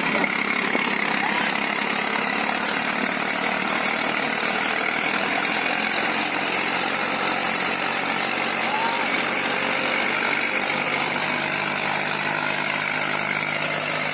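Eicher tractor's diesel engine running steadily at an even speed.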